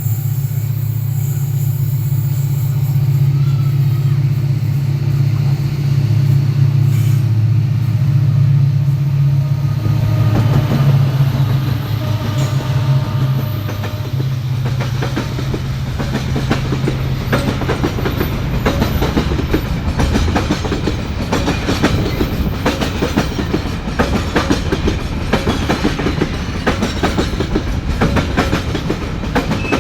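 Diesel-hauled train passing close by: a steady low engine drone for about the first half, then fast clickety-clack of carriage wheels over the rail joints as the cars roll past.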